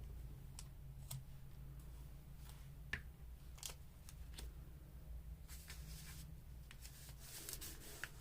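Faint handling of paper and craft materials: scattered light clicks and taps, with brief rustles about five and a half and seven and a half seconds in.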